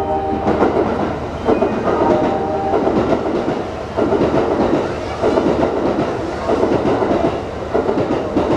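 A train running through the station, its wheels clattering over rail joints. A few short electronic tones sound in the first three seconds.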